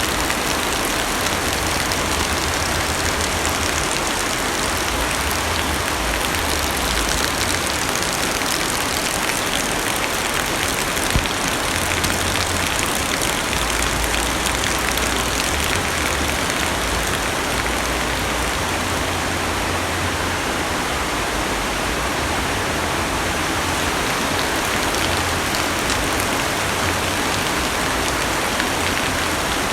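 Heavy rain drumming steadily on a car's roof and windows, heard from inside the cabin as a dense, even patter with a low rumble that swells and fades. One slightly louder tap comes about eleven seconds in.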